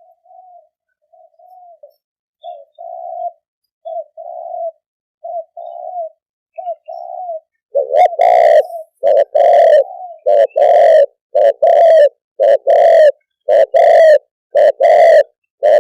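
Spotted dove cooing. It starts as a string of soft coos, then from about eight seconds in the coos are much louder and fuller, roughly one a second.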